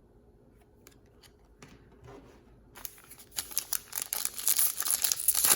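A trading-card pack's foil wrapper being torn open and crinkled, starting a little under halfway in and growing loud, after a few faint ticks of cards being handled.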